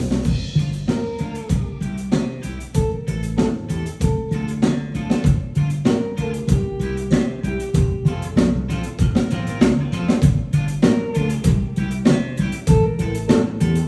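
Rock band playing live: electric guitar over a drum kit keeping a steady beat.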